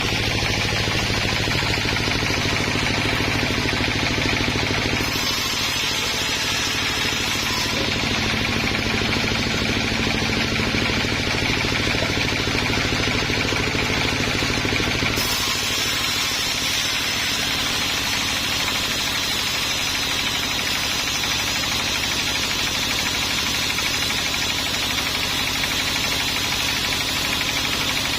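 Engine running steadily with a low rumble, its tone changing abruptly twice, about five and fifteen seconds in.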